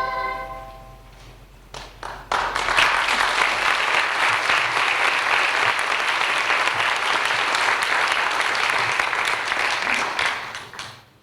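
The last notes of a sung praise chorus die away, then an audience starts clapping: a few scattered claps at first, then full, steady applause for about eight seconds, which fades out near the end.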